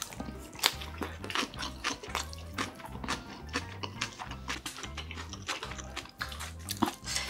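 Close-miked chewing: many short wet clicks and crackles of a person eating, over background music with a steady repeating bass line.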